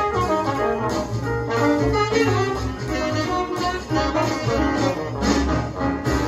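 Jazz ensemble playing a horn passage, with saxophone and brass over bass and drums keeping a steady beat.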